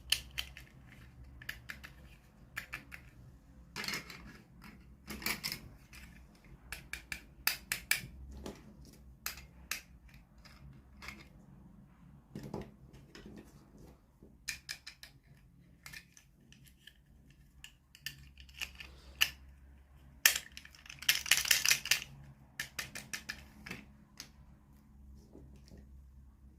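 Hands opening toy packaging and handling small plastic pieces: scattered sharp clicks, snaps and crinkles, with a dense rustling burst about 21 seconds in.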